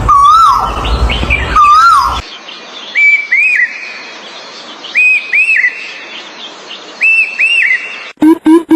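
Birds calling in a series of spliced recordings. First a clear whistled call, sung twice, then a higher two-note call repeated three times about every two seconds. Near the end a rapid run of short repeated notes begins.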